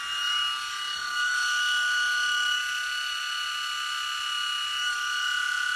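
Heiniger Saphir cordless clipper switched on and running as a test after reassembly: a steady, high-pitched motor whine with the buzz of the blade drive.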